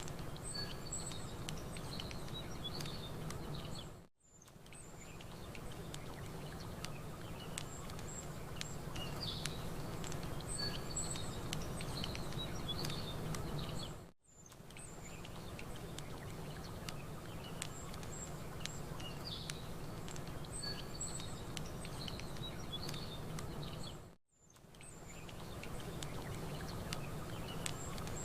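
Campfire crackling over a steady wash of water, with small birds chirping and tweeting now and then. The whole mix dips almost to silence and fades back in three times, about ten seconds apart.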